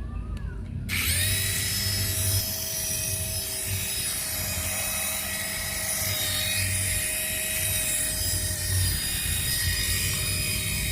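The electric motor of a radio-controlled toy starts about a second in and runs with a steady high whine.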